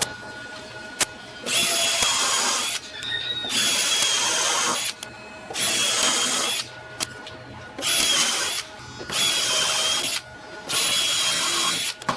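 A small electric power tool, such as a drill, running in six separate bursts of one to two seconds each, switched on and off between them, with a steady motor whine.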